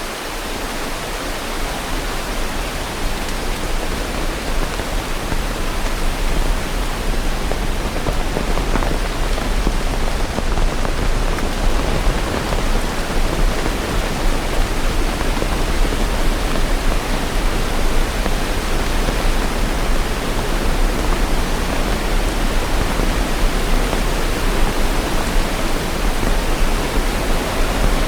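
Steady heavy rain: an even, dense hiss with no single drops or thunder standing out, growing a little louder over the stretch.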